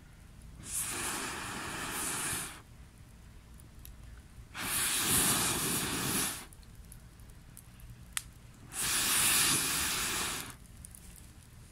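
Three hissing blasts of about two seconds each, with pauses between them, while a Swedish torch log is being lit. A single sharp click comes between the second and third blasts.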